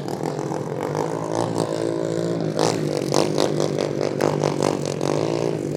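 Turbocharged Scion FR-S's 2.0-litre flat-four engine running as the car drives off, its pitch rising about a second and a half in, followed by a run of quick, uneven pulses.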